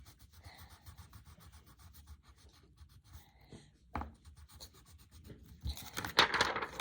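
Colored pencil scratching on paper in quick, repeated strokes, with one sharp tap about four seconds in. The scratching grows louder and denser near the end.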